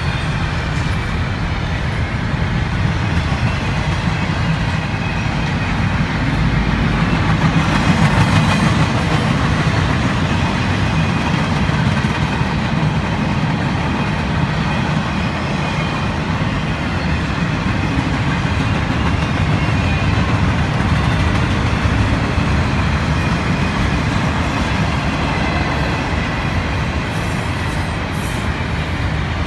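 Freight train of intermodal cars rolling past on the rails, a steady loud rolling noise of wheels on track that goes on without a break.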